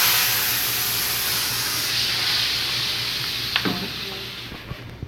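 Food sizzling as it hits hot oil in a pan, starting suddenly loud and slowly dying down, with a light knock of a utensil about three and a half seconds in.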